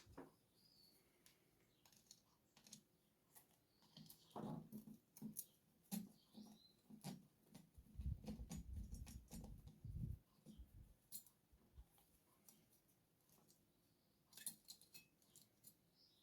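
Faint, scattered clicks and taps of a hex screwdriver and small screws being worked on an RC truck's plastic chassis, with a run of duller knocks about eight to ten seconds in.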